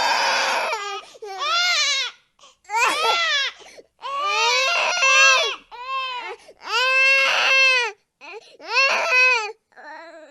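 Baby crying: a string of loud cries, each arching up and down in pitch, with short catches of breath between them. The last cry near the end is quieter.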